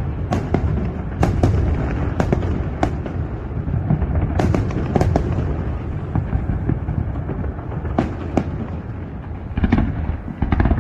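Fireworks going off in rapid succession: many sharp crackles and bangs over a steady low rumble of bursting shells.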